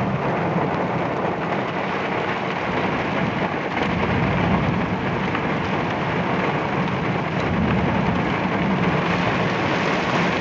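Heavy thunderstorm rain pouring down steadily, an even hiss of downpour.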